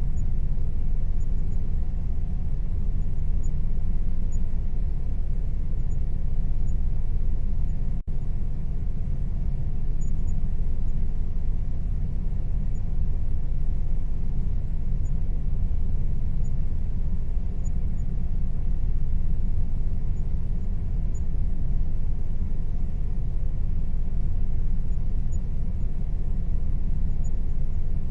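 Air conditioner running steadily: a constant low rumble and hum with a faint steady tone above it, broken by a momentary cut-out about a third of the way in.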